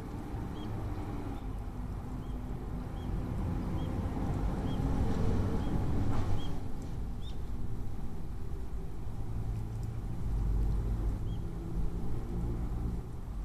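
Eurasian tree sparrow chirping: a short high chirp repeated about twice a second, stopping a little past six seconds in, over a steady low rumble. Around six seconds in a brief louder burst of splashing water marks the loudest moment.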